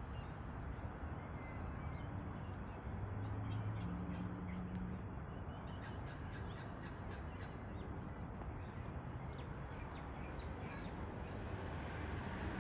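Sulphur-crested cockatoos calling, a dense, steady squawking over a continuous noise, with faint high chirps from about six seconds in.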